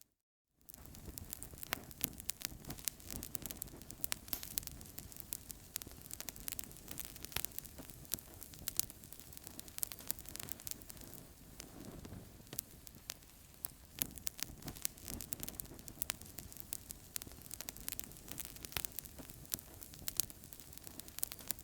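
Wood fire crackling in a fireplace: frequent sharp pops and snaps over a steady hiss of flames, after a half-second gap of silence at the start.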